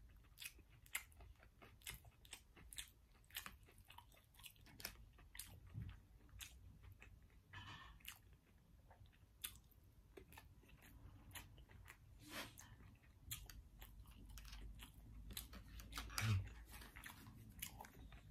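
Close-up chewing of food, with many small wet mouth clicks and soft crunches at an irregular pace. One louder knock comes near the end.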